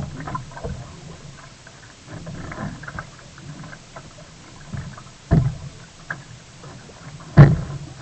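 Water splashing and lapping around a sea kayak while paddling, with two short heavy thumps a little past five seconds and about seven and a half seconds in, the second the louder.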